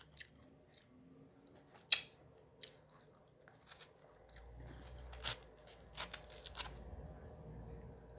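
Close-miked eating sounds of a person chewing mango: scattered sharp mouth clicks and small crunches, the loudest about two seconds in and a cluster a few seconds later. A faint low hum runs under the second half.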